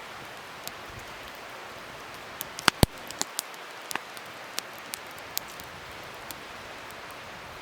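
Wood fire crackling: a steady hiss with scattered sharp pops, two loud pops close together just under three seconds in, followed by a run of smaller ones.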